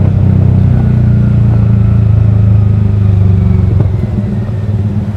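Yamaha R15 V3's single-cylinder engine through a Daytona Evolution aftermarket exhaust, a bassy steady note under way. It eases off and drops in level about four seconds in.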